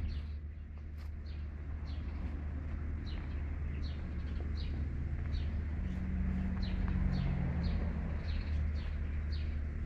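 A small bird repeating a short, high, downslurred chirp at an even pace, about one and a half chirps a second, over a steady low rumble.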